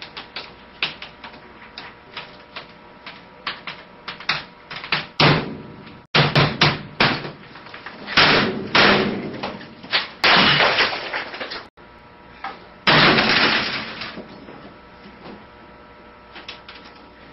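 Computer keyboard and desk being struck by an office worker: a run of quick clicks and taps, then from about five seconds in loud, irregular bangs and crashes, two of them longer and noisier, before it settles back to lighter taps.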